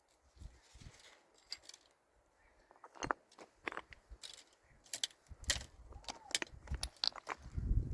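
Scattered light clicks and clinks of small hard objects, few at first and coming more often from about three seconds in.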